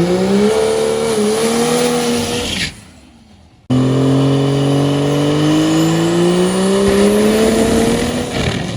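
Diesel drag-race truck engine at full throttle, rising steadily in pitch as it accelerates. It does this twice, each run cutting in and out abruptly, with a quieter break of about a second in between.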